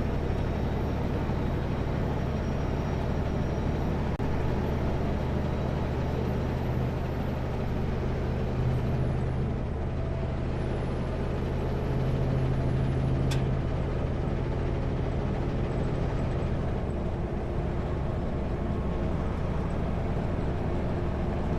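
Kenworth W900L semi truck's diesel engine running steadily at highway cruise, a continuous low drone with road noise heard from inside the cab. There is a single click about two-thirds of the way through.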